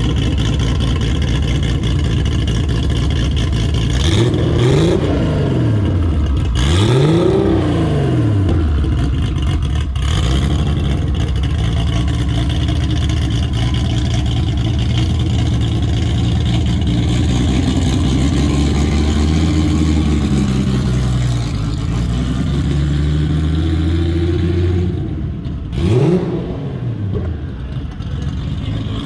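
Datsun 240Z's built, Garrett G42-turbocharged RB-series straight-six running steadily, revved in three quick blips that rise and fall in pitch: two close together a few seconds in and one near the end.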